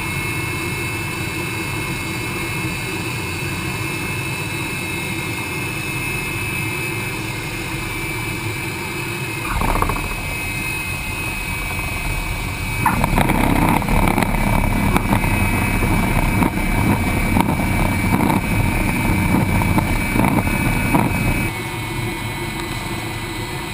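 Aero L-29 Delfin jet trainer heard from the cockpit in flight: a steady engine and airflow noise with a thin high whine. About thirteen seconds in it turns louder and rougher, with crackling, for about eight seconds before settling back.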